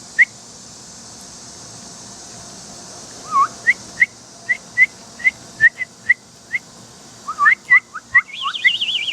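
A person whistling a series of short, rising bird-like chirps, about two a second, with a faster burst and a brief warbling trill near the end.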